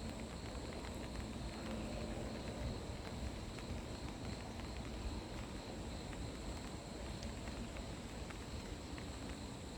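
Insects trilling steadily in one unbroken high-pitched tone, over a low rumble of wind on the microphone.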